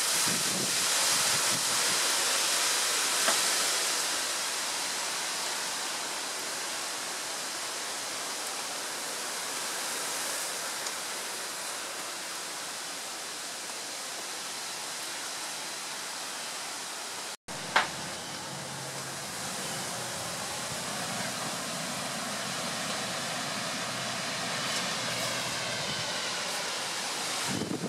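Heavy rain pouring down in a storm, a steady dense hiss. It breaks off for an instant with a sharp click about two-thirds of the way through, then carries on.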